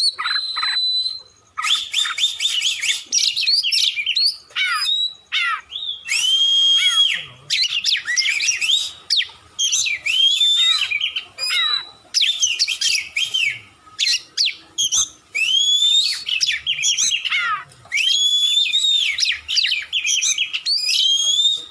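Oriental magpie-robin (kacer) singing a loud, almost unbroken song: a rapid run of varied whistled phrases, many sweeping up or down in pitch, mixed with quick chattering notes, with only brief pauses between phrases.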